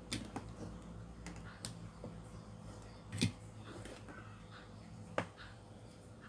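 Scattered small clicks and taps from handling the phone and its audio cable, the two loudest about three and five seconds in, over a faint low steady hum.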